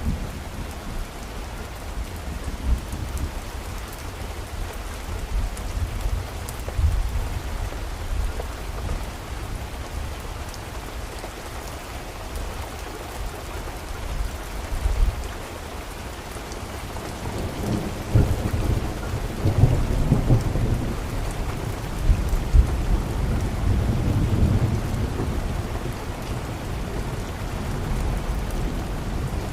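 Steady rain falling, with a low rumble of thunder that swells and rolls for several seconds past the halfway point.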